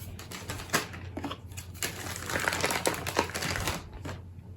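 Wooden watercolour pencils clicking against each other and their case as they are handled, with light rustling between the clicks.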